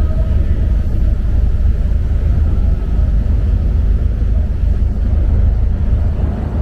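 Steady low rumble aboard a passenger ferry, the engine and hull noise of the boat under way, with no sudden events.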